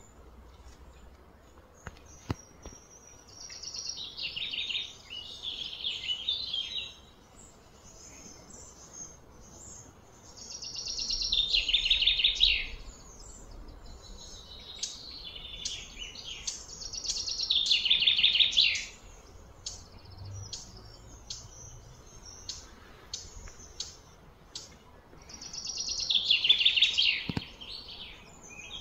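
A songbird singing a loud, fast-trilled phrase that falls in pitch, four times about six seconds apart, with short sharp chirps in between.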